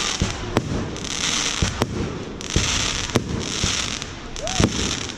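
Fireworks display: sharp bangs of bursting shells every second or so, between them stretches of crackling, fizzing hiss.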